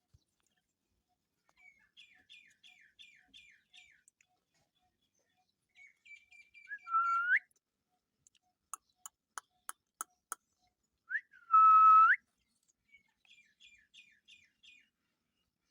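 Indian ringneck parrot calling: quick runs of short, falling chirps and two whistles that drop and then sweep upward, the second the loudest. In between comes a run of about eight sharp clicks.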